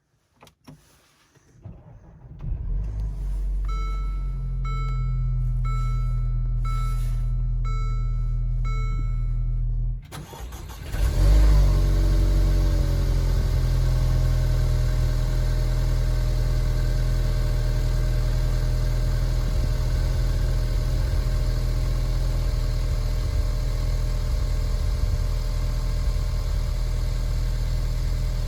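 Cold start of a 2018 Mercedes-Benz GLA 250's 2.0-litre turbocharged four-cylinder after three days at −7 °C. First a low steady hum with about six warning chimes roughly a second apart; then, about ten seconds in, the engine catches with a sharp flare of revs that falls away over a few seconds and settles into a steady cold idle.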